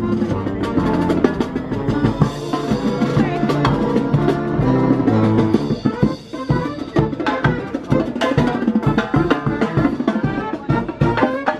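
A band playing an upbeat tune, with drums and percussion to the fore and a brief drop about six seconds in.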